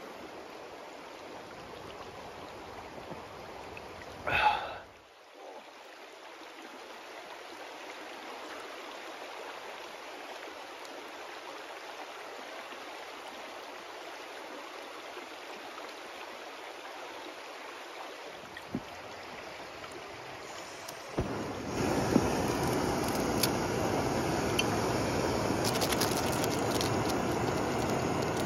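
Creek water rushing and gurgling steadily over stones, with one brief louder sound about four seconds in. About three-quarters of the way through, a louder, fuller rushing sound takes over.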